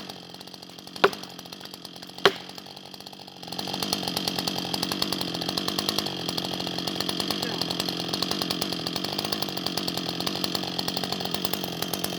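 Husqvarna 560XP two-stroke chainsaw running at low speed with two sharp knocks in the first couple of seconds. It is then throttled up at about three and a half seconds and runs steadily at high revs.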